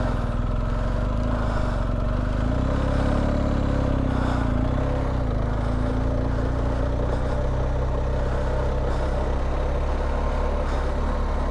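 BMW R1250GS's boxer-twin engine running at low, steady revs, with a slight rise and fall in pitch a few seconds in.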